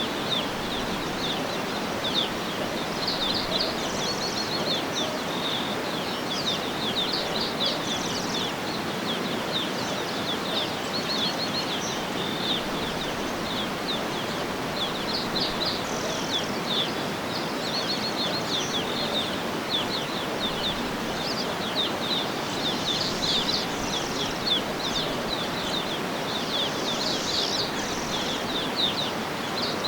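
Small birds chirping and twittering many times over, short quick calls overlapping throughout, above a steady even background hiss of outdoor noise.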